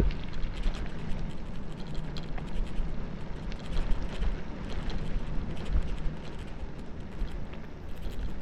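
Bicycle coasting downhill on a rough road: steady tyre noise with many small clicks and rattles, and low wind buffeting on the microphone.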